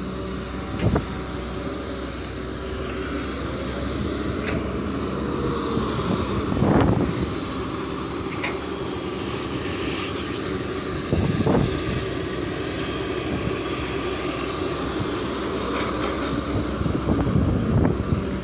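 Caterpillar 320D2 hydraulic excavator at work: the diesel engine runs steadily under load, the pitch of the machine rising and falling in places. Several loud knocks come through, about a second in, near seven seconds, near eleven and a half, and near the end.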